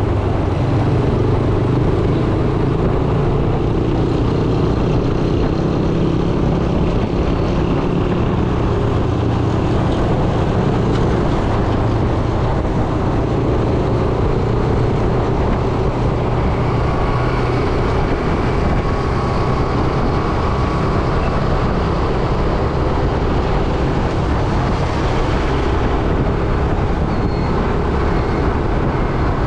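Yamaha YBR 125G motorcycle's single-cylinder four-stroke engine running steadily under way, with road and wind noise.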